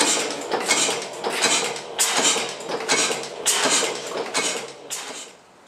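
1896 Gardner size 2 hot-tube gas engine running, a rhythmic metallic clatter of beats about every three quarters of a second, often falling in pairs. The beats die away about five seconds in.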